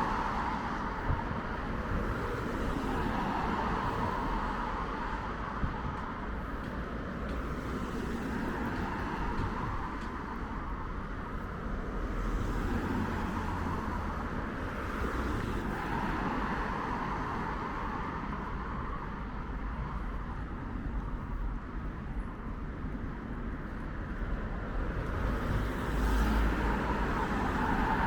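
Steady road traffic: cars passing one after another, the tyre and engine noise swelling and fading every few seconds over a low rumble.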